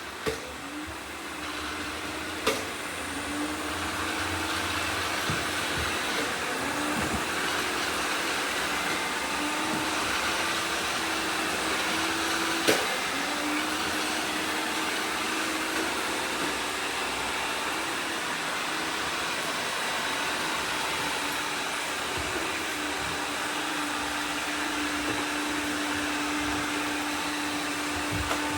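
Robot vacuum cleaners running together: a steady whir of suction motors and brushes with a hum that wavers slightly in pitch, broken by two sharp knocks.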